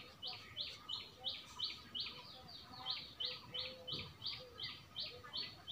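A small bird chirping over and over, about three short, high chirps a second, each falling in pitch.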